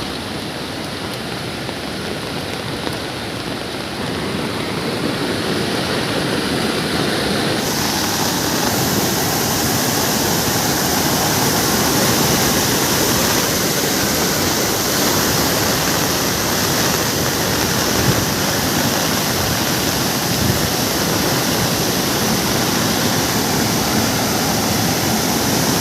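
Waterfall, water rushing and splashing in a steady, loud wash of noise that grows louder a few seconds in and turns abruptly hissier about eight seconds in.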